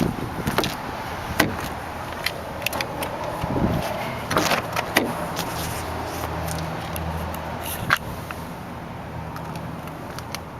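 Clicks and knocks of car doors, trim and controls being handled inside a parked car, over a low steady hum.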